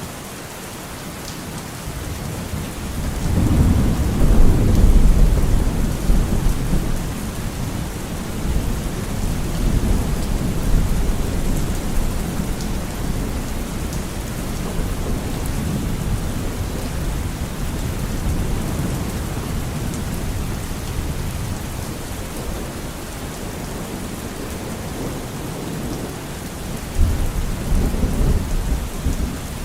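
Steady heavy rain with rolling thunder: a long, deep rumble swells up a few seconds in and fades slowly, and another rumble begins near the end.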